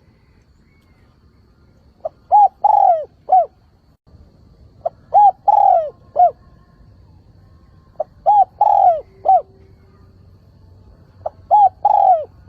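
Spotted dove cooing: four repeated phrases about every three seconds, each a short pickup note and three coos, the middle coo longest and falling away at its end.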